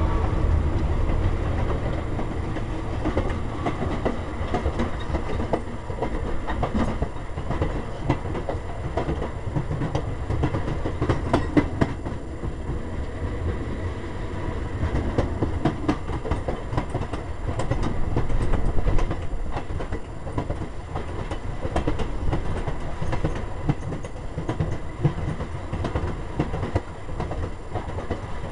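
A caboose rolling along on a moving train, heard from its open rear platform: a steady rumble, with steel wheels clicking irregularly over rail joints and the car rattling.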